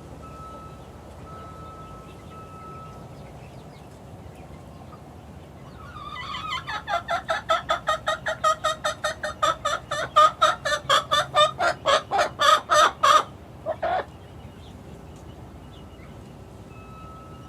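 Chicken giving a fast run of clucking calls, about four a second, growing louder for some seven seconds, then one last call a second after the run stops.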